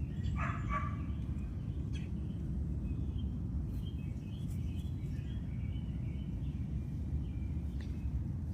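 A steady low outdoor rumble, with backyard chickens calling: one short call about half a second in, then soft high chirps and trills through the middle.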